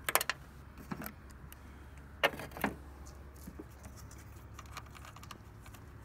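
Sharp clicks and clinks of tools and plastic parts being handled at a truck's under-hood fuse box. The loudest come right at the start and about two seconds in, with a few lighter ticks between, over a steady low hum.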